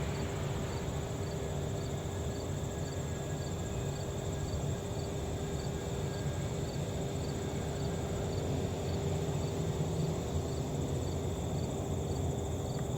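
Crickets chirping in an even rhythm, about one and a half chirps a second, over a steady high insect hiss. Under them runs a low, steady rumble with a held hum from the landed Boeing 737 MAX 8's jet engines.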